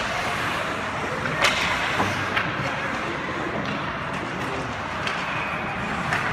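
Steady crowd and hall noise from a game, with sharp knocks and clacks of play cutting through it: several in the first couple of seconds and another about five seconds in.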